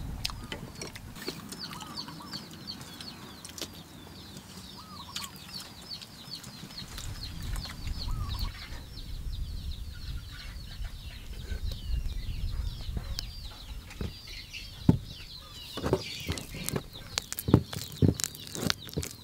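Birds chirping in quick, high repeated calls, several a second, thinning out after about fifteen seconds. A run of sharp knocks follows near the end.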